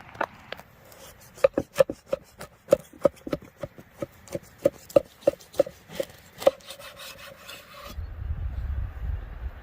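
A rapid series of sharp knocks, about three a second, each with a short woody ring, stopping about two-thirds of the way in. A low rumble starts near the end.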